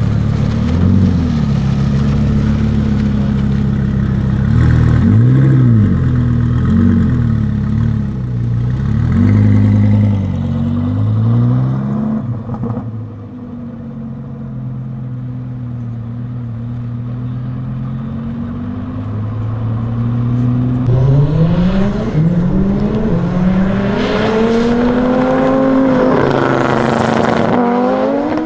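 Twin-turbo Audi R8 V10 engine, first blipped up and back down several times at low speed, then running steadily at a low idle. About two-thirds of the way in it goes to full throttle, its pitch climbing and dropping back at each gear change as the car accelerates hard.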